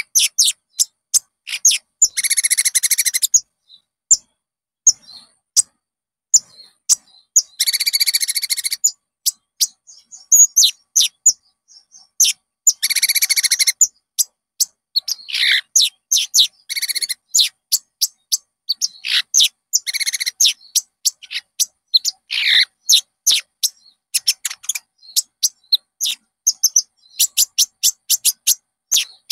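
Konin birdsong: a rapid run of short, sharp, high chirps, broken several times by dense buzzy trills about a second long. It is a pancingan lure recording, played to set a caged konin singing.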